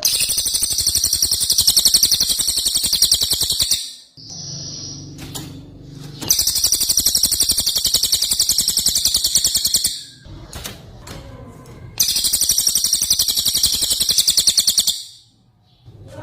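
Cucak ijo (green leafbird) singing in three long, rapid-fire trills of fast repeated high notes, each lasting three to four seconds with short pauses between: the hard 'tembakan' (shot) runs in the style of the cililin, used as training song to rouse other cucak ijo.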